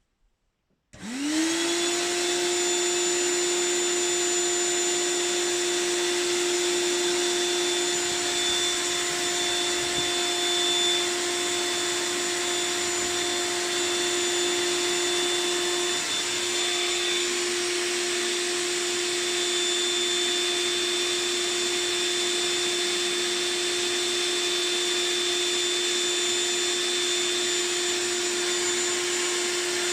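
Electric air pump switching on about a second in, spinning up quickly and then running at a steady pitch as it blows up the beach ball.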